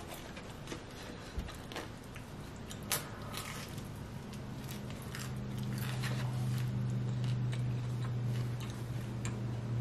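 Close-up biting and chewing of a giant pepperoni pizza slice, with short crunchy clicks now and then. About halfway through, a low steady hum comes in under the chewing.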